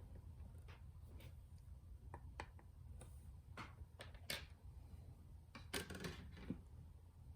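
Faint clicks, taps and short scrapes of small parts being handled, scattered irregularly with a cluster about six seconds in, over a low steady hum.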